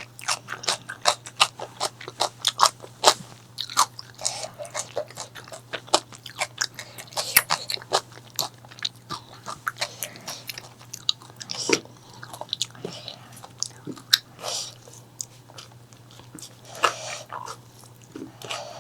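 Close-miked biting and chewing of crunchy food: quick, dense crunches through the first half, thinning to slower, wetter chews later. A faint steady low hum runs underneath.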